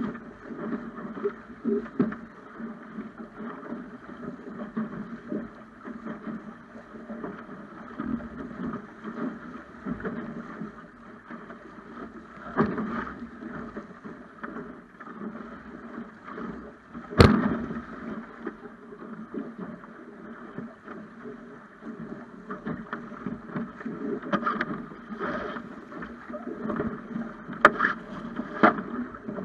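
Water rushing and splashing along the hull of a Snipe sailing dinghy under way, an uneven, steady wash. Sharp knocks cut through it, the loudest a little past halfway and two more near the end.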